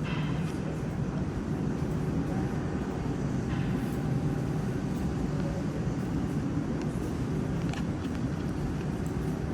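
Moscow Metro train running with a steady low rumble, with a few faint clicks over it.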